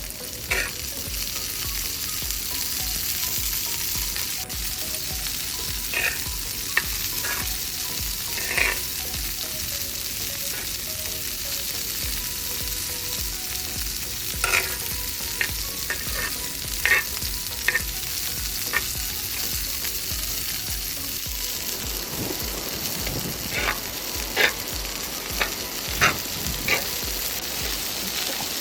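Frozen fried rice sizzling steadily in a hot pan, stirred with a spatula that scrapes and taps against the pan now and then.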